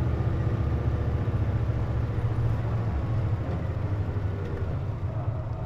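Cabin sound inside a Hino Rainbow KC-JP250NTN city bus under way, with the air conditioning on: a steady, deep diesel engine and drivetrain drone that eases gradually in level over the few seconds.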